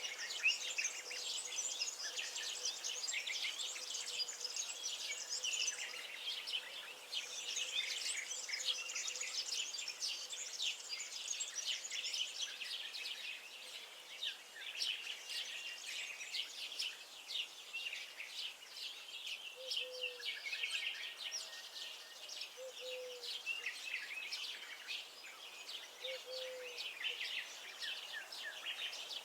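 A chorus of many small songbirds singing and chirping, their high notes overlapping continuously. In the second half a short, lower call repeats about every three seconds.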